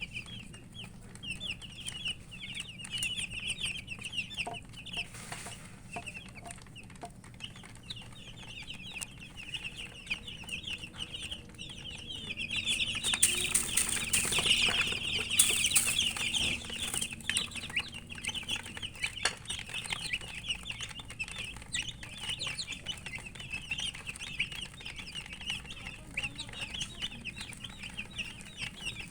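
A brood of domestic chicken chicks peeping continuously, many short high chirps overlapping, loudest about halfway through.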